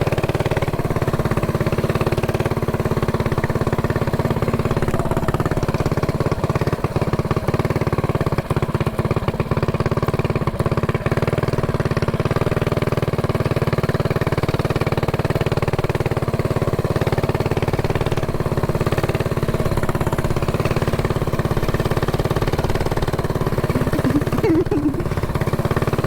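Mini bike's small single-cylinder engine running close by at a steady speed, its pitch barely changing.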